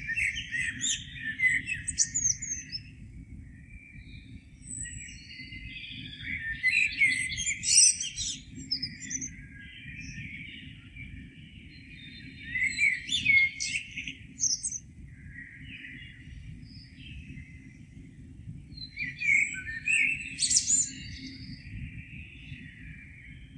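Songbird singing in separate phrases of a couple of seconds each, about every six seconds, with quieter chirping in between. A steady low rumble runs underneath.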